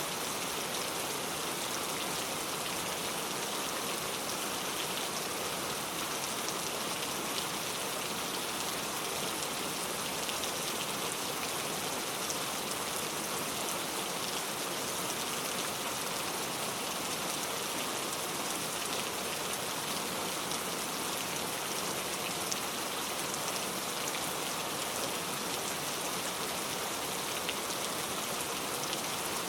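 Heavy rain falling steadily onto a leaf-covered road, a dense even hiss with fine drop taps throughout.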